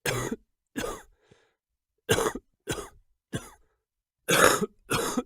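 A person coughing, about seven short coughs in a row, some in quick pairs, with dead silence between them.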